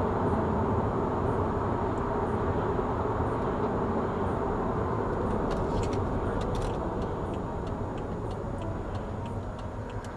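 Steady road and engine noise of a moving car, heard from inside, slowly getting quieter as the car slows. A couple of clicks come about halfway through, then a fast, regular ticking of about two or three ticks a second.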